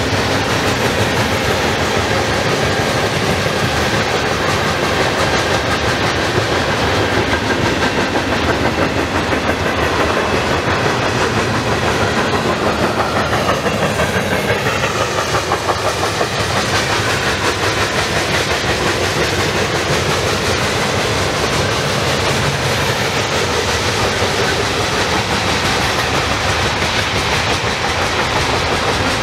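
Cars of a mixed freight train rolling past at speed: a loud, steady noise of steel wheels running on the rails.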